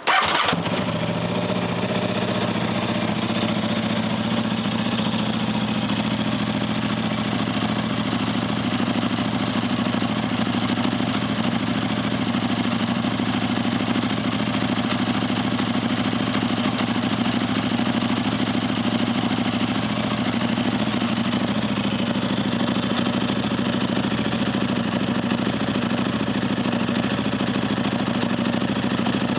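KTM RC8 V-twin with a full titanium Akrapovic exhaust system and Akrapovic fuel map, dB killer still fitted, firing up at the start and then idling steadily.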